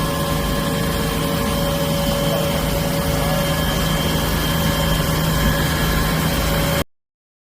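Ultra-high-pressure fire truck with a Q-FIRE P4000 rotary positive-displacement pump running steadily: a low engine drone with a steady whine and a hiss over it. It cuts off abruptly near the end.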